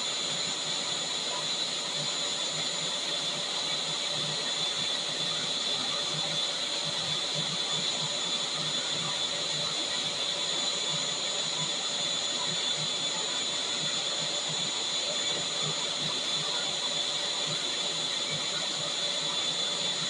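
Vacuum cleaner running steadily: an even rush of air with a high-pitched motor whine over it.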